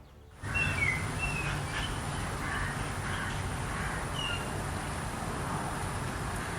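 Outdoor ambience that starts abruptly about half a second in: a steady noisy background with a low rumble, and over it several short, falling bird calls, bunched in the first second or so and once more about four seconds in. A thin, steady high tone runs beneath.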